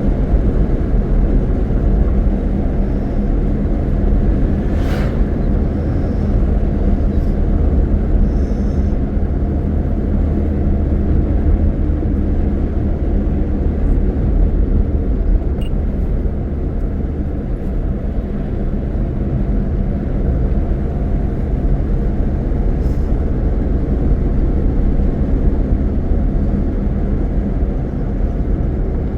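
A car driving: steady low engine and road rumble that holds an even pitch throughout, with a faint short tick about five seconds in.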